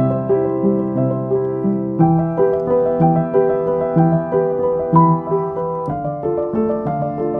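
Background music: a piano playing a slow sequence of repeated notes.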